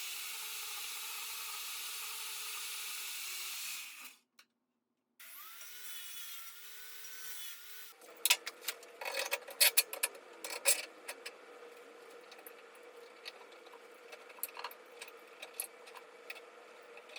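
Bandsaw cutting through a steel shaft, a steady grinding hiss that stops about four seconds in. After a short gap comes a machine whine with a wavering pitch, then a run of sharp metal clinks and knocks over a steady hum.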